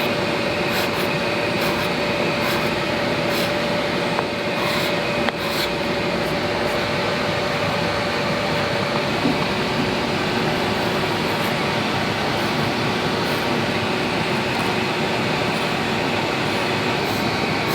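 Power sander running steadily against the wooden box, sanding out tear-out marks, with a faint steady whine over its noise.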